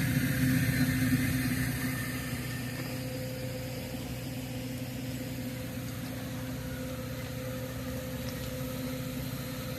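A vehicle engine idling with a steady hum, louder for the first two seconds and then settling lower.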